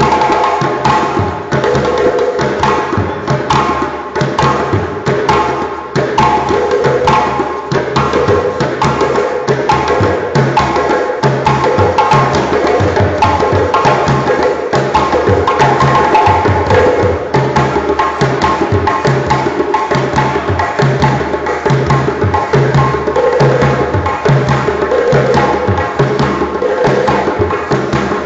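Live African percussion: several drums played together in a fast, steady, unbroken rhythm, with a low drum repeating a pattern beneath sharper hand-drum strikes.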